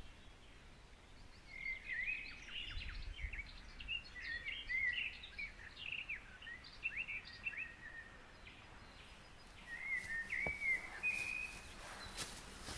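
Songbirds singing in two spells of quick chirps and short whistled phrases over a low outdoor rumble, with a few short sharp sounds near the end.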